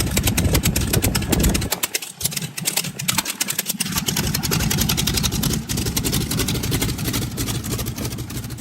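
Pratt & Whitney R-985 nine-cylinder radial aircraft engine running, a rapid, even stream of firing pulses. Its deep low end drops away for about two seconds near the start, then comes back.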